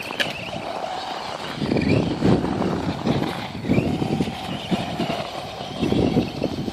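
Electric motor of a Traxxas Stampede 4x4 RC truck running, a faint whine that rises and falls in pitch as it is driven and drifted in snow. Irregular low rumbling bursts set in about a second and a half in and are the loudest part.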